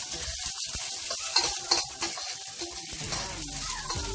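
Sliced onion and garlic sizzling in hot oil in a wok, stirred with a spatula that scrapes and knocks against the pan now and then.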